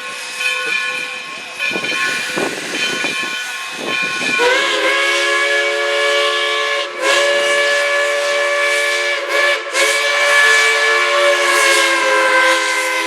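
A locomotive's multi-note chime whistle blows one long chord of about eight and a half seconds. It opens about four seconds in with a slight rise in pitch and dips briefly a few times while it sounds. Before it there are fainter steady whistle tones and hiss.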